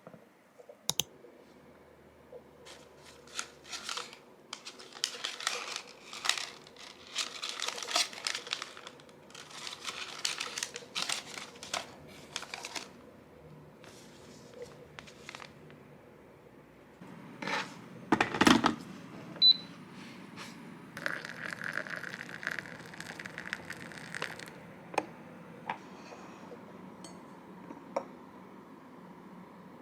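Close-up handling sounds: crinkling and rustling with light clicks and taps, a louder knock about two-thirds through, then a short steady hiss.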